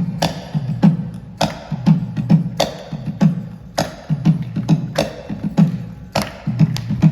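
Kanjira, a small South Indian frame drum, played in a steady rhythm: a sharp slap on the skin about every 0.6 s, with deeper pitched bass strokes in between.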